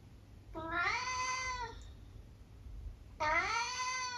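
Tabby cat meowing twice, two drawn-out meows about two seconds apart, each rising in pitch at the start and then holding.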